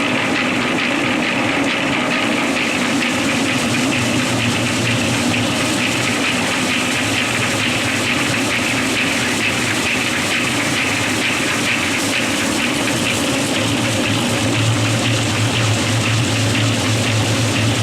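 Electric drum concrete mixer running steadily, turning a batch of bagged dry concrete with water. Its low hum grows stronger about three quarters of the way through.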